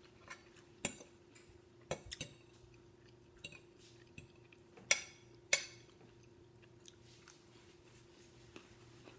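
Cutlery clinking against a dinner plate while eating: a handful of sharp clicks scattered through, the loudest two about five seconds in, half a second apart, with faint chewing, over a faint steady hum.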